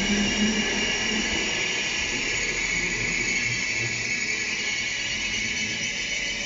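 Northern diesel multiple unit moving along the platform, giving a steady high-pitched hissing whine, with a lower engine hum underneath that fades in the first second or so.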